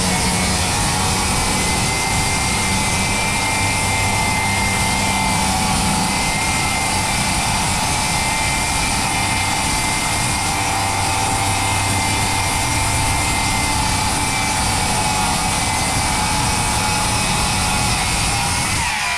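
A power tool's motor running steadily with a constant whine, stopping near the end.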